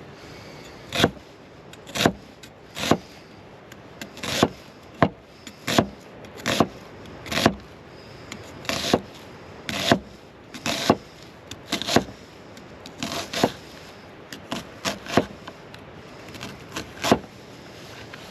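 A knife chopping on a wooden cutting board: short, sharp knocks at an irregular pace, about one a second.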